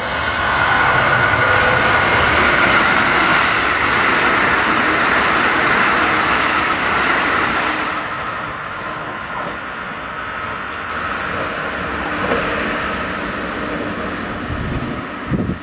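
Keikyu New 1000 series electric train running through a station at speed without stopping. A loud, steady rush of wheels on rail is strongest in the first half, then eases as the train runs on.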